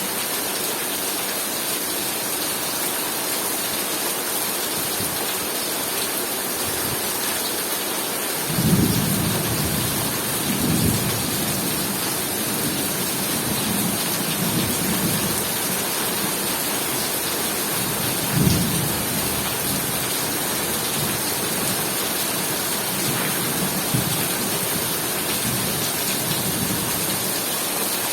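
Heavy rain falling in a steady hiss, with thunder rumbling in from about a third of the way in. The loudest roll comes first, further rolls follow over the next few seconds, and another strong rumble comes a little past the middle.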